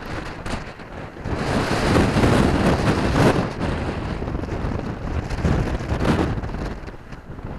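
Strong wind gusting over the microphone in a windstorm: a gust builds about a second in, is strongest around two to three seconds, then eases off.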